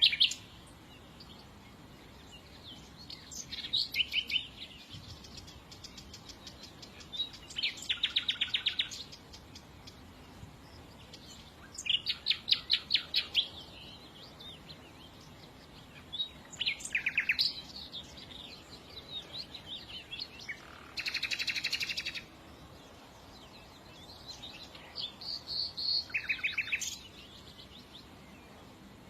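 Small songbird singing in short phrases of fast repeated trilled notes, about six phrases a few seconds apart, one of them buzzier, over a faint steady hiss.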